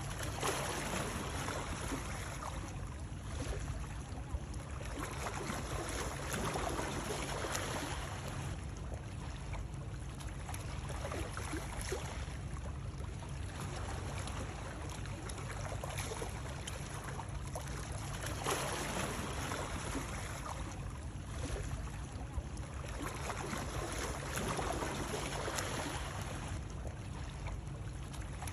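Continuous water sound used as soothing white noise: a steady rush that swells and eases about every six seconds, like water sloshing or lapping.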